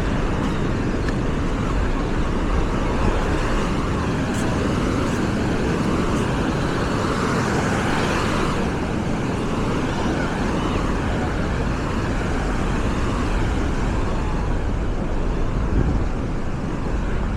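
Busy beach ambience: a steady rushing wash of surf and wind with many people's voices chattering faintly underneath, swelling a little about eight seconds in.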